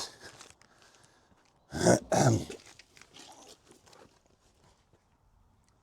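A man makes one short throat-clearing noise about two seconds in, followed by faint rustling and small clicks as he rummages.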